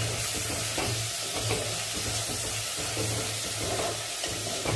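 Chopped onion, garlic and tomato sizzling in hot oil in a clay pot while a wooden spatula stirs them in repeated strokes, the sauté stage of the curry base.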